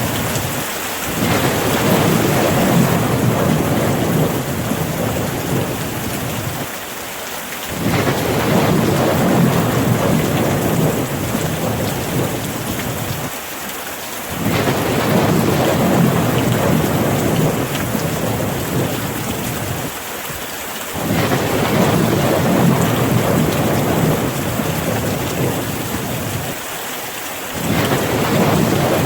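Steady rain, with a low rumble that swells and dies away in an even cycle about every six and a half seconds.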